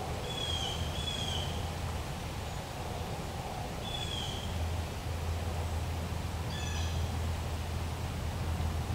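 A wild bird calling: three short calls that slur downward, two close together at the start and one about four seconds in, then a different, shorter call about two-thirds through. A steady low rumble runs underneath.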